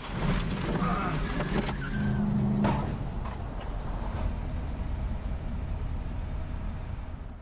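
Car driving noise, a steady rumble of road and engine, with brief voices and a few sharp knocks in the first three seconds.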